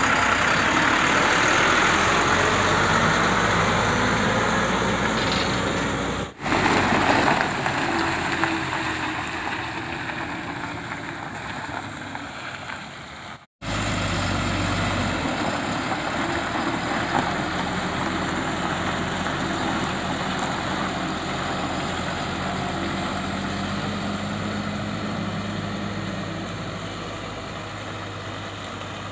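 Heavy flatbed truck's diesel engine running as the loaded truck pulls away, the sound slowly fading as it moves off. The sound drops out briefly twice.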